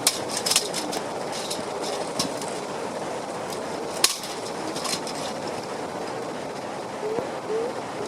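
Fire pit parts clinking and clattering as it is assembled, with scattered sharp knocks, the loudest about four seconds in, over a steady rushing background.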